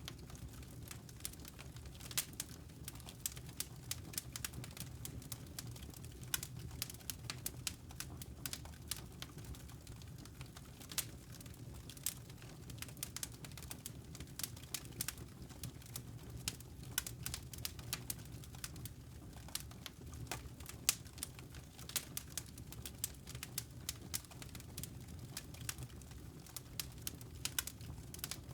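Wood fire crackling, with frequent irregular snaps and pops over a steady low rumble.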